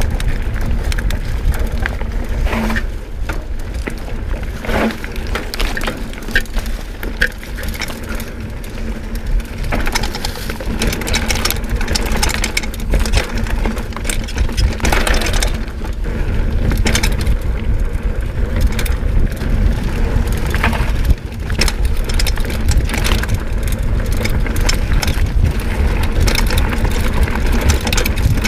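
Orbea Loki plus-tyre mountain bike riding over a rough trail: tyres crunching on stones and gravel, with frequent clicks and knocks as the bike rattles. Wind rumbles on the camera microphone throughout.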